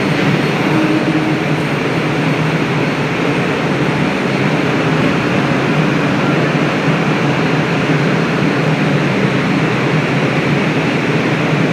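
Air-conditioned Indian suburban local train, a loud steady rumble and hiss that runs on without breaks.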